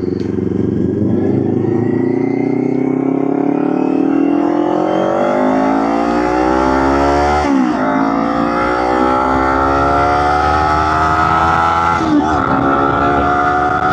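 Motorcycle engine accelerating through the gears: the pitch climbs slowly, dips sharply at an upshift about seven and a half seconds in, climbs again, and shifts once more about twelve seconds in before holding steady.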